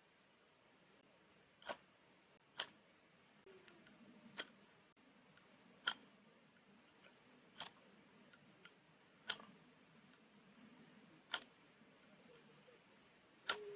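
Eight sharp single clicks at uneven intervals of one to two seconds over near silence.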